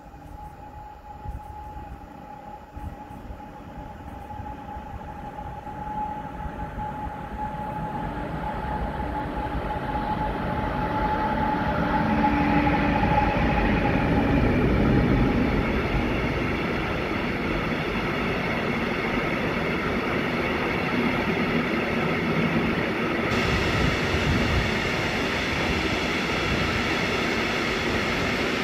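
Freight train of an E6ACTa Dragon electric locomotive and a TEM2 diesel locomotive with open coal wagons, approaching and running through the station. A steady whine and a rising rumble grow louder as the locomotives arrive, about halfway through. After that comes the steady rolling noise of the coal wagons passing close by.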